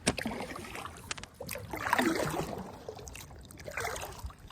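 Kayak paddling: water splashing and dripping off the paddle blades, with a few sharp clicks in the first second and a half.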